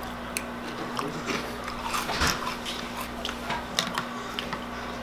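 A person chewing a mouthful of crunchy cereal: irregular crisp crunches and clicks, loudest a little past two seconds in.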